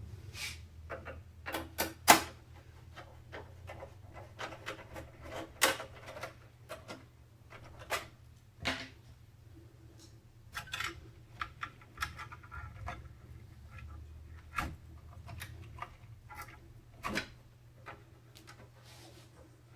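Irregular clicks, taps and light knocks of computer parts being handled and fitted during a PC build, over a faint steady low hum.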